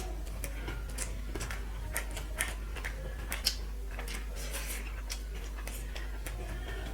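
Eating sounds: small, irregular clicks and smacks of chewing and of rice and curry being eaten by hand.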